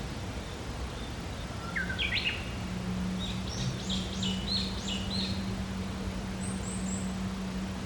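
Small songbirds singing in woodland: a quick rising call about two seconds in, then a run of about six repeated clear notes, and three very high short chirps near the end, over steady outdoor background noise with a constant low hum.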